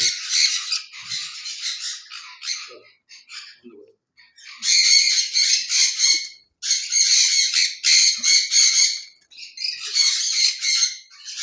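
Sun conures screeching: harsh, high-pitched squawks, sparse at first, then coming thick and loud in three long stretches from a little past a third of the way in.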